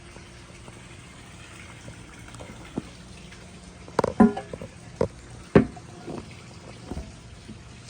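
Water running steadily in a 1967 American Standard Glenwall toilet as it flushes and refills, with a low hum under it. A few sudden louder sounds come about halfway through.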